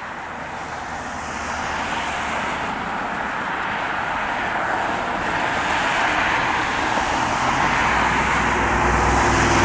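Airport snow-removal vehicle running and drawing nearer: a steady rush of engine and blower noise that grows louder throughout, with a low engine hum coming in over the last couple of seconds.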